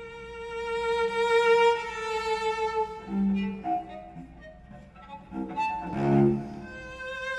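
Solo cello, bowed: a long sustained high note, then shorter lower notes and a quieter stretch, broken about six seconds in by a loud, forceful bow stroke before a held note returns.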